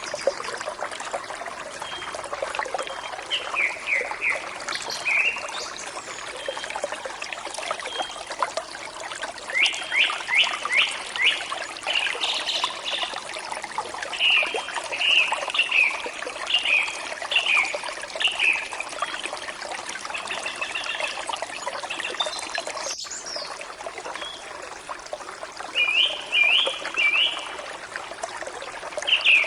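Forest stream flowing steadily, with songbirds singing over it in series of short, quickly repeated falling notes. About two-thirds through there is a momentary click-like break in the sound.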